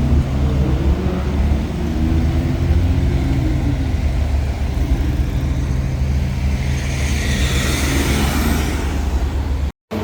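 A sports car's twin-turbo V8 or straight-six exhaust runs with a steady low drone. A hissing rush builds near the end, and the sound drops out abruptly for a moment just before the end.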